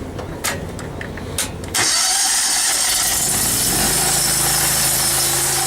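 A pressure washer's 25-horsepower Honda engine runs steadily, with two light clicks; about two seconds in, the spray wand opens and a loud, steady hiss of 3,000 psi water spray starts and keeps going over the engine.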